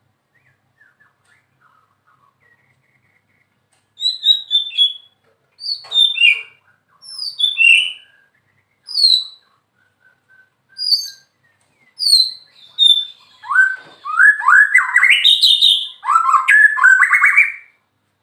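White-rumped shama singing: short, clear whistled phrases that fall in pitch, with brief pauses between them. Near the end they run together into a longer, fast stretch of varied notes. Only a few faint notes come before the song starts, about four seconds in.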